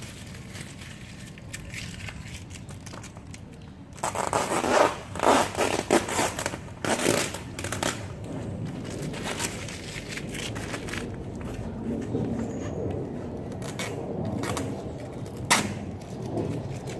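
Parcel packaging being opened by hand: wrapping crinkling and rustling, with a run of loud ripping strokes from about four to eight seconds in.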